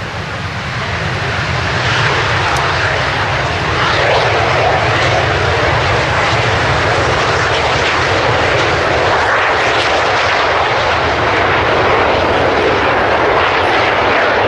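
Jet engine noise from PZL TS-11 Iskra jet trainers, swelling over the first few seconds, then a steady, loud rushing sound.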